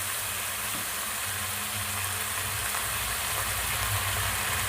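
Onions, capsicum and tomato with sauces sizzling steadily in a hot kadai, an even hiss with a low steady hum underneath.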